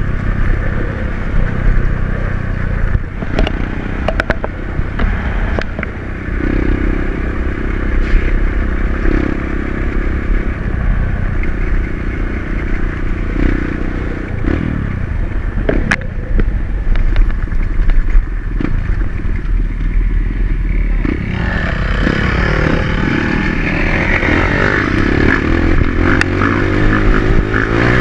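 Dirt bike engine running while being ridden off-road, with scattered clicks and knocks. About three quarters of the way through, the engine note grows fuller and harsher as it is given more throttle.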